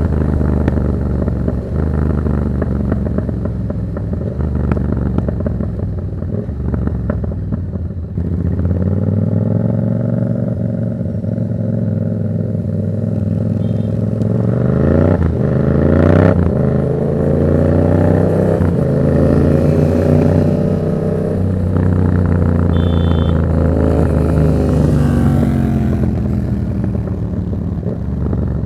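Yamaha MT-07's 689 cc parallel-twin engine through an aftermarket Black Widow exhaust, heard while riding. It runs at a fairly steady note at first, then its pitch climbs and drops again several times as the bike accelerates and changes gear.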